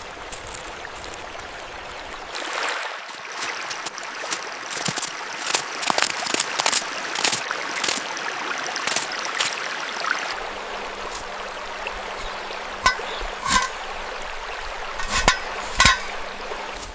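Small stream trickling and gurgling, with several short, sharp sounds in the second half.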